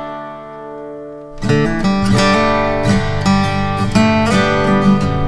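Background music of plucked acoustic guitar. A chord rings out and fades for about the first second, then the picking starts again.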